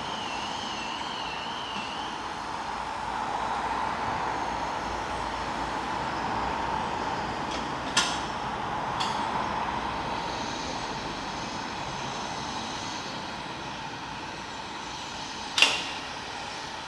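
A train at a railway station: a steady rushing noise, with a sharp bang about eight seconds in and a louder one near the end.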